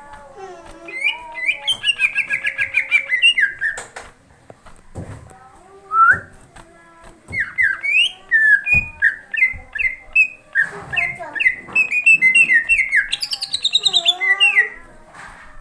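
Green leafbird (cucak ijo) in full, agitated song: rapid runs of repeated chirps and swooping notes, with a short lull near the middle and a few sharp clicks between phrases.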